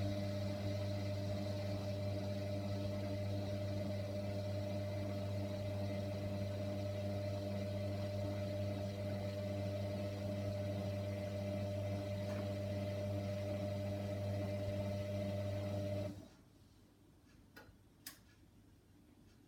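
Hoover washer dryer running mid main wash: a steady motor hum that cuts off sharply about sixteen seconds in, followed by a few faint clicks.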